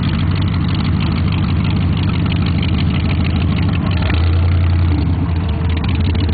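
Supercharged engine of a hot-rod pickup running at low speed as the truck rolls slowly past, a steady low rumble that swells louder about four seconds in.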